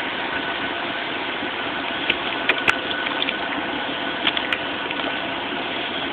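Steady rushing noise inside the cab of an idling Chevrolet Suburban, with a few short sharp ticks about two seconds in and again past four seconds.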